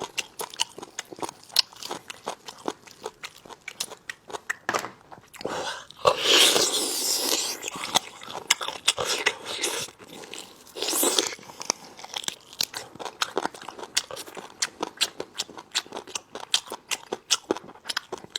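Close-miked chewing of braised meat on the bone, with many sharp crunches as cartilage is bitten through. The crunching comes in louder bouts about six and eleven seconds in.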